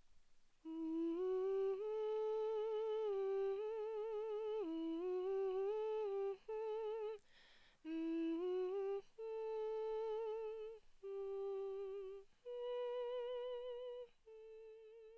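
A single voice humming a slow melody in short phrases, the held notes wavering with vibrato, with a quick intake of breath between phrases about halfway through.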